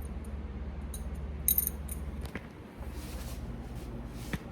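A few light metallic clinks of small hand tools being handled, the clearest about a second and a half in, over a steady low hum.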